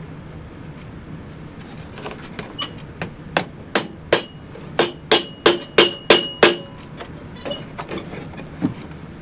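Hammer tapping small nails, about a dozen sharp blows, each with a short metallic ring, coming faster near the middle and stopping about two-thirds of the way in. A few lighter taps follow.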